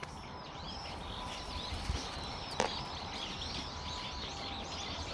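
Small birds chirping over and over, short arched calls repeating throughout, with a single sharp knock about two and a half seconds in.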